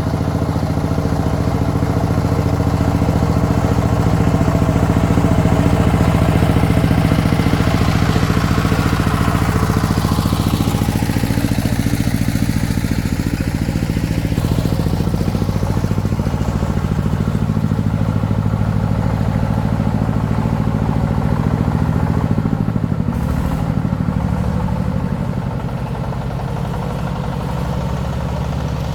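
Diesel engine of a công nông farm truck running steadily. A whine falls and rises again around ten seconds in.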